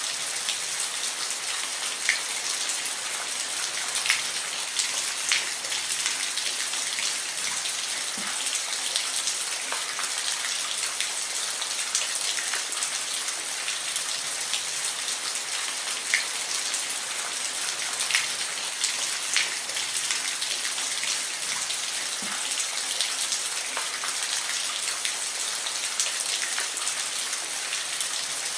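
Steady rain falling, a dense even hiss with scattered sharper drops ticking close by.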